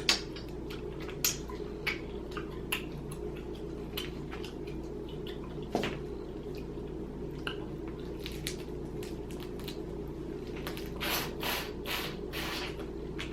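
Boiled crawfish being peeled by hand and eaten: scattered sharp clicks of shell cracking and wet squishing, busiest near the end, over a steady low background hum.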